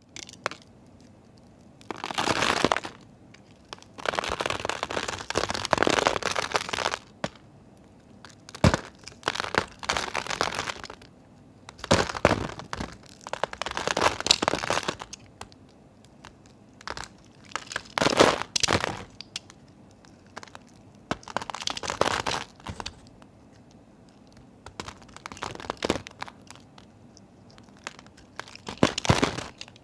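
Dry soap being cut, with a crunchy, crackling sound in about nine strokes of half a second to three seconds each, separated by short pauses.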